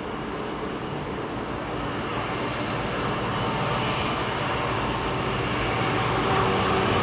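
A train approaching, its running noise growing steadily louder.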